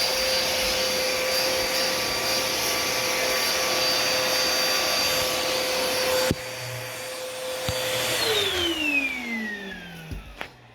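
Bissell PowerLifter Swirl Pet upright vacuum cleaner's motor running with a steady whine and suction rush through the hose attachment. There is a click about six seconds in, and the sound drops. Near the end the motor winds down with a falling pitch as it is switched off, followed by a few light knocks.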